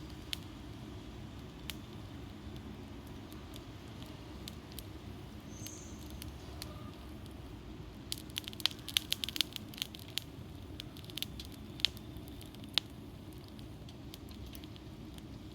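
Wood fire crackling in a fire pit: scattered sharp pops and snaps, coming thick and fast about eight to ten seconds in, over a steady low rumble.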